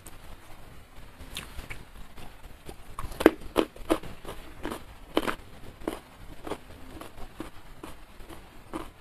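Close-miked mouth sounds of a person chewing food: irregular wet smacking clicks, quicker and louder for a few seconds in the middle.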